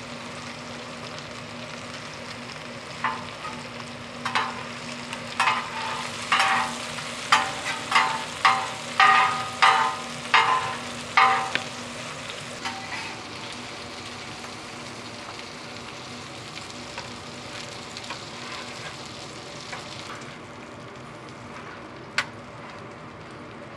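Korean jeon pancakes frying in oil with a steady sizzle. A run of about a dozen sharp clinks falls from about three to eleven seconds in, and one more comes near the end. The sizzle dulls about twenty seconds in.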